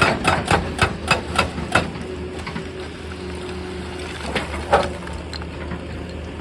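Excavator's diesel engine running steadily under a quick run of sharp knocks, rock being broken and struck, about three or four a second for the first two seconds. A few more knocks come about two thirds through.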